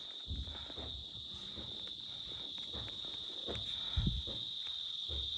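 Insects trilling in one steady high-pitched note, with a few low thuds underneath.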